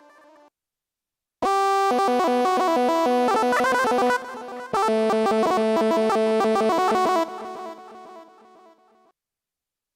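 Software synthesizer (Xfer Serum) playing a fast, ornamented Balkan-style solo melody, two phrases with a short break between them, the second fading away.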